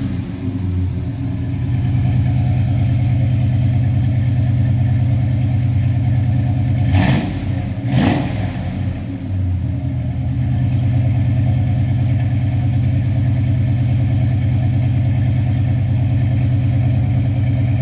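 1967 Chevrolet Impala SS engine running steadily at idle, blipped twice about a second apart near the middle, then settling back to idle.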